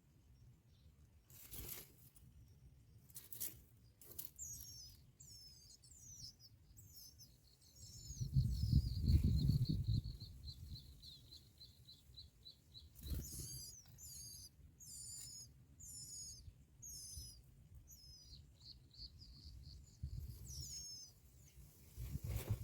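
Bar-winged prinias chirping at the nest: high, downward-sweeping chirps repeated about twice a second, in two runs with a quick string of short high notes between them. A few sudden rustling knocks come through, and a louder low rumble about eight seconds in.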